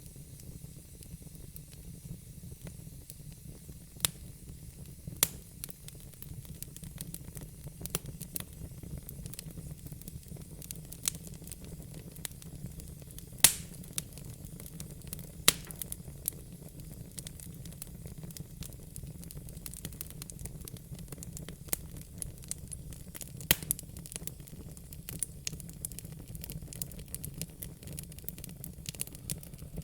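Wood fire in a fire pit crackling: irregular sharp pops and snaps over a steady low rush and hiss, with a couple of louder pops near the middle.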